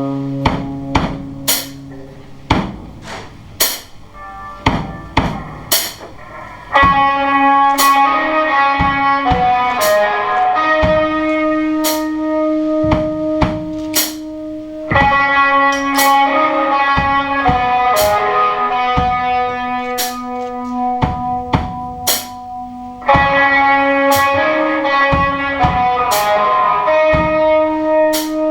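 Live rock band playing with electric guitar and drum kit: a sparse drum beat with light guitar at first, then the full band comes in louder with sustained guitar chords about seven seconds in.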